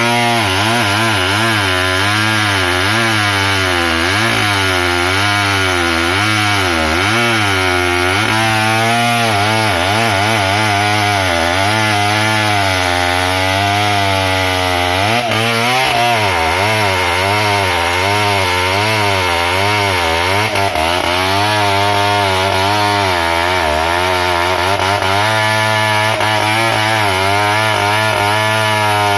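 Two-stroke chainsaw running hard while cutting into the wood of a buttressed tree, its engine pitch wavering up and down continuously as the chain bites in and eases off.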